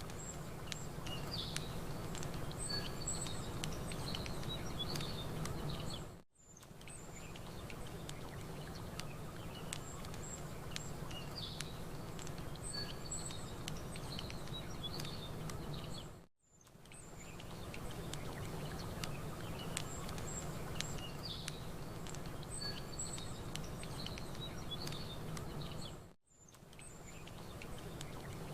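Campfire crackling with scattered small clicks, songbirds chirping high and brief over a steady low rush of lapping water. The ambience drops out for a moment about every ten seconds, where the track loops.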